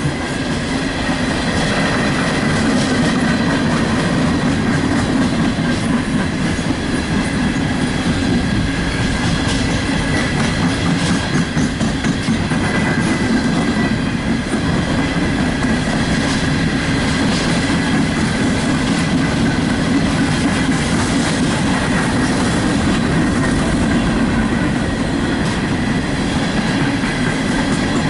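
Empty coal hopper cars of a CSX freight train rolling past, a steady loud rumble and clatter of wheels over the rail joints. A faint steady high squeal runs through it, the train's brakes applied hard enough to smell hot.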